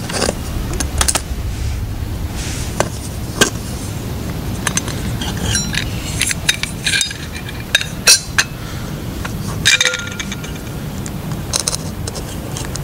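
Lightweight metal camp cookware being handled: a series of irregular clinks and taps, with a short ringing clatter near the end, as the aluminium kettle and the small folding Esbit stove are set out.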